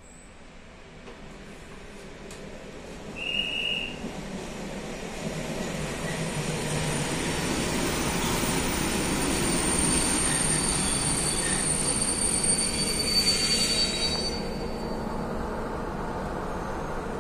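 Train pulling away: low running hum and rail noise building up over the first ten seconds, with wheels squealing in steady high tones from about six to fourteen seconds in. A short beep sounds about three seconds in.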